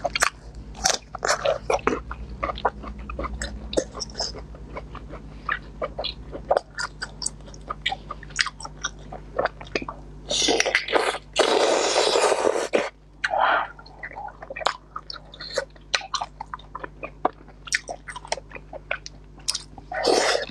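Close-miked chewing of sausage: wet mouth clicks and smacks as pieces are bitten and chewed. Just past the middle, a louder noise lasts about a second and a half.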